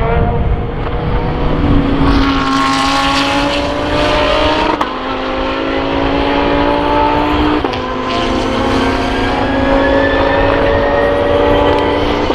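SUPER GT race car engines accelerating hard out of a corner, pitch climbing through the gears with sharp upshifts about five seconds and seven and a half seconds in. More than one car is heard at once, with bursts of noise as cars pass.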